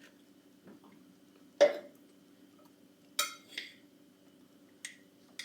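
A few sharp clinks and knocks of dishes and cutlery: one loud knock about a second and a half in, then lighter clinks, over a faint steady hum.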